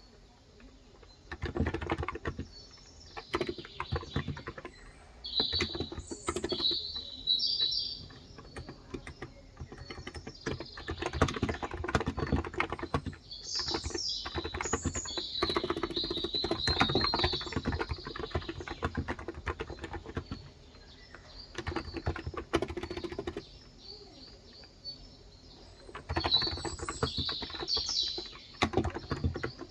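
Rapid typing on a Cox Endeavour electro-capacitive (Topre-style) tenkeyless keyboard with light 35 g keys, in bursts of several seconds separated by short pauses. Birds chirp over it in a few clusters of high, quick notes.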